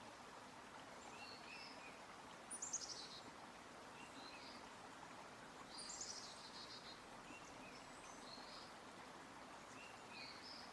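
Faint forest ambience: small birds chirping, with a high trill about two seconds in and again about six seconds in, over a soft even hiss.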